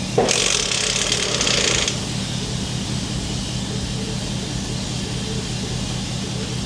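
Cordless impact wrench hammering for just under two seconds, starting right at the beginning, on a nut that won't come off. The tool is suspected to be short of battery.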